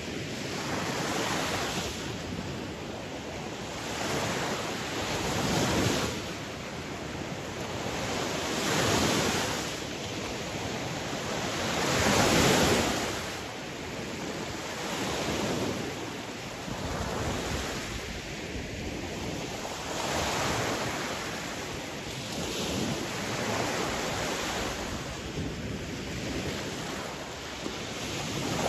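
Sea waves breaking and washing on a shore, a steady surf with swells rising and falling every few seconds; one wave, about twelve seconds in, is the loudest.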